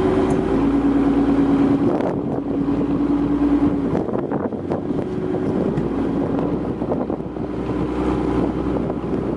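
Fishing boat engines droning as the boats manoeuvre, with wind buffeting the microphone. The engine tone is strongest in the first four seconds, shifting down slightly about half a second in, then fades into the wind noise.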